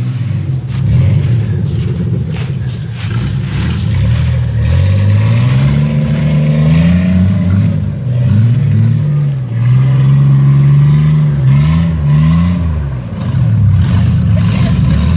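Truck engine on the six-wheel-drive S10 'centipede' revving under load off-road, its pitch climbing and dropping in several swells.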